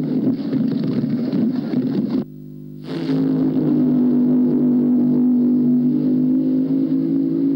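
A car engine running loud at a steady speed, rough and noisy on the old film sound track. It cuts out abruptly about two seconds in and comes back a moment later, as at a splice in the film.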